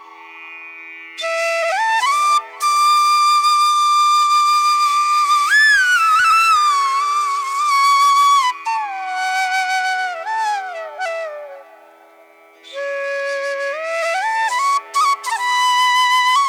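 Background music: a slow flute melody with sliding, bending notes over a steady held drone, pausing briefly twice.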